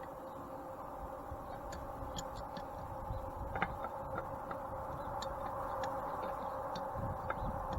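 Scattered light clicks and taps of parts being handled, over a steady hum.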